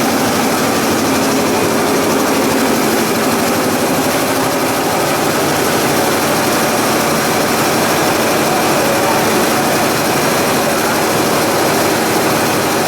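Industrial plastic pelletizing line running steadily, a continuous loud machinery noise with a faint steady hum and no breaks.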